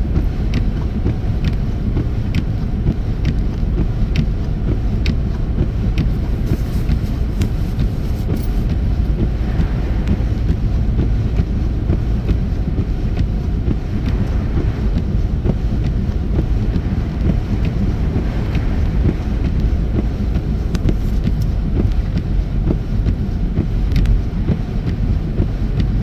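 Steady low road and engine rumble of a car driving on a snow-covered highway, heard from inside the cabin, with faint regular ticking.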